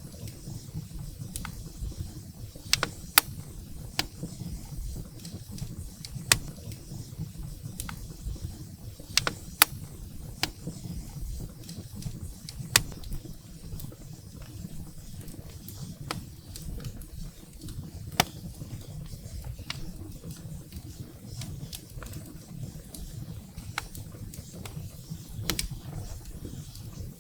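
Wood fire burning in a fireplace: a steady low rumble of flames, with firewood crackling and popping in irregular sharp snaps, a handful of them louder than the rest.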